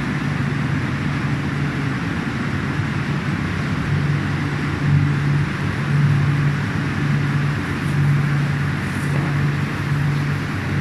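Hot-melt edge-band glue coating machine running: a steady hiss with a low hum that swells and fades irregularly.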